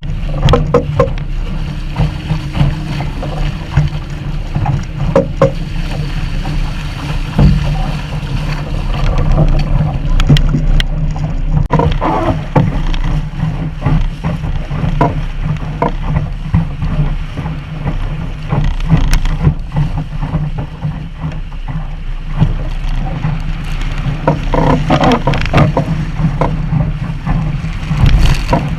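Wind buffeting the microphone with a steady low rumble while water splashes and slaps against a Sunfish sailboat's hull, with scattered knocks and a few louder splashes, around 12 seconds in and again near the end.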